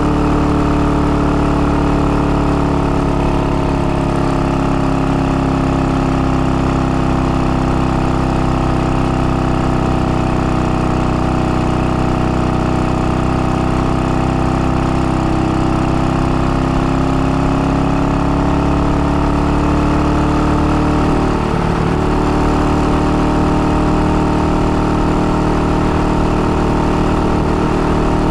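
IZh-49 motorcycle's single-cylinder two-stroke engine running steadily under way, freshly rebored and being run in at moderate speed. Its pitch sags slightly and then recovers, with a brief break in the engine note about three-quarters of the way through.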